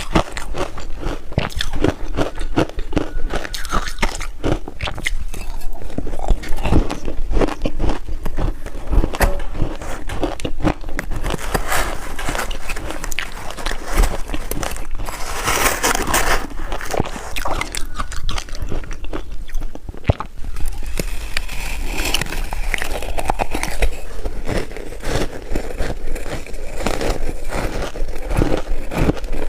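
Ice being bitten and chewed close to the microphone: a continuous run of sharp crunches and cracks, with a denser stretch of grinding crunch about halfway through.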